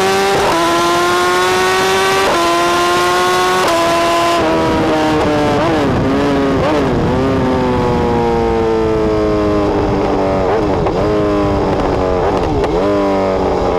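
BMW S1000R's inline-four through a full decat BlackWidow exhaust with Pro-Race end can, accelerating hard through three quick upshifts in the first few seconds. It then slows, the engine pitch falling, with short throttle blips on the downshifts.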